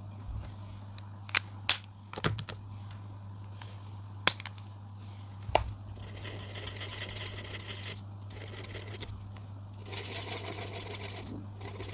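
Coloring on paper: scratchy strokes of a coloring tool in two stretches in the second half, after a handful of sharp clicks and taps in the first half. A steady low hum runs underneath.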